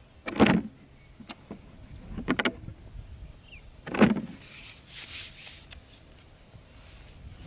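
A few separate knocks and scrapes, loudest about half a second and four seconds in, followed by about a second of rustling scraping.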